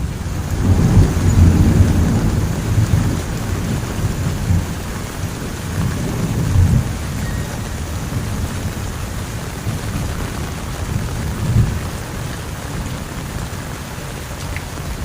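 Heavy rain falling steadily, with a low rumble of thunder that swells about a second in and rolls on in smaller swells.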